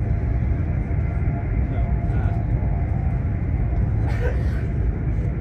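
Steady low rumble and road noise inside a high-speed train carriage running at speed, with a brief higher sound about four seconds in.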